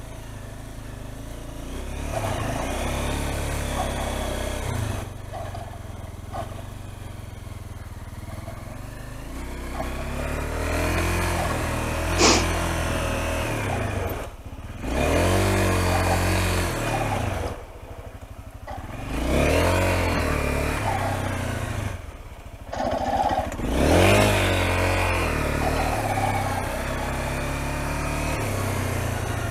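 Motorcycle engine revving up and easing off again and again, its pitch climbing and dropping with each surge as the bike is ridden at low speed; the surges come more often and louder in the second half.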